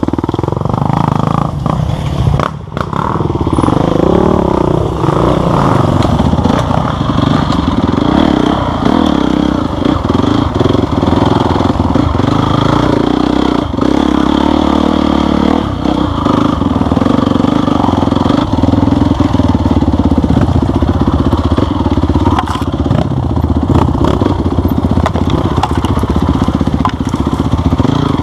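Off-road motorcycle engine running under load, revving up and down in the first few seconds and then holding a fairly steady pitch, with occasional knocks and clatter.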